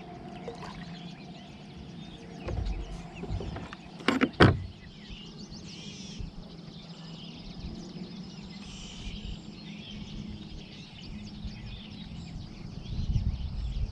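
Birds chirping and calling steadily in the background, with a couple of low thuds and then two sharp knocks about four seconds in.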